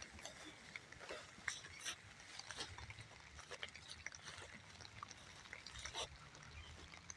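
Light rain: scattered, irregular sharp taps and ticks of drops landing, over a faint background hiss.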